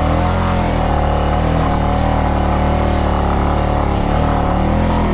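Motorcycle engine running steadily at low revs, its pitch wavering slightly.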